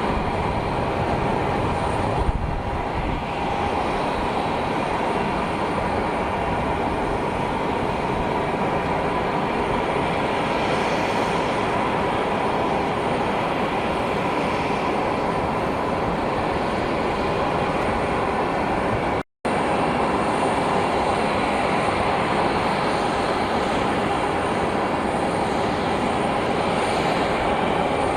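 Jet aircraft engines running steadily: a continuous rush with a steady whine over it, breaking off for an instant about two-thirds through and resuming.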